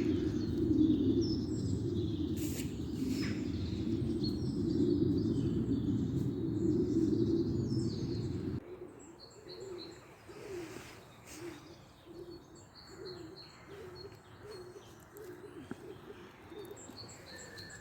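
Small birds chirping throughout, under a loud low rumble that cuts off suddenly about halfway through; after that a pigeon cooing in a slow, repeated rhythm.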